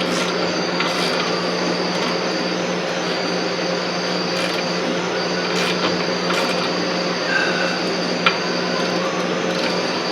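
Steady mechanical running noise with a constant low hum. A high thin whine cuts in and out, with a few light clicks and a sharp tick about eight seconds in.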